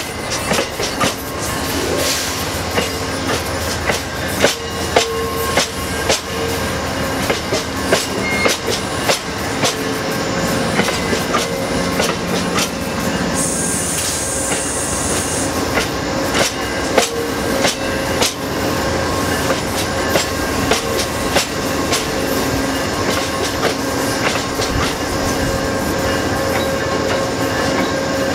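Amtrak Amfleet passenger cars rolling slowly past, wheels clicking steadily over rail joints with a faint squeal from the wheels. A brief high hiss comes about halfway through.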